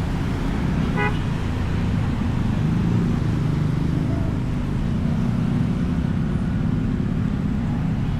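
Steady low rumble of vehicle engine and road traffic on a city street, with one short horn beep about a second in.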